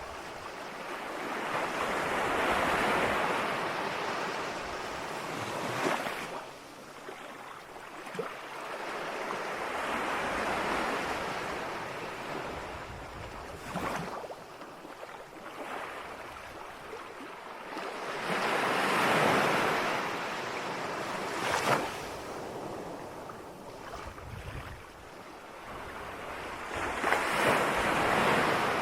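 Ocean surf: waves breaking and washing in and out, each swell rising and falling over about eight seconds, with a sharp splash now and then as a wave crashes.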